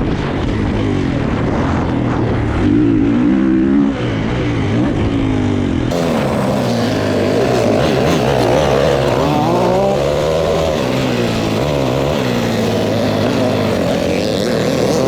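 Dirt bike engines running and revving on a motocross track, their pitch rising and falling. The sound changes abruptly about six seconds in, as if cut to another shot.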